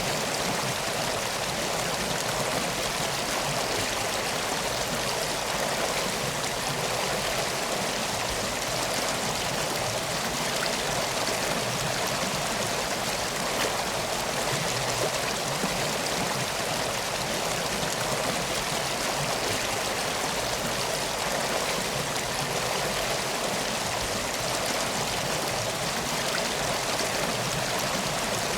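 Flowing river water, a steady, even rush with no pauses or distinct crackles.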